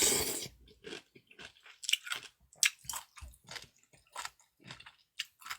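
A person chewing food close to the microphone: a short breathy noise at the start, then many small, irregular wet mouth clicks.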